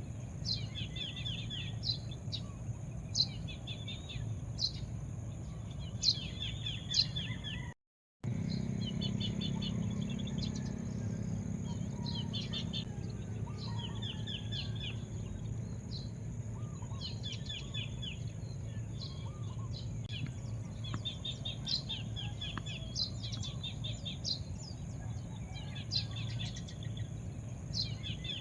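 Small birds chirping over and over in short, rapid, trilled phrases, over a steady low rumble. The sound cuts out completely for a moment about 8 seconds in.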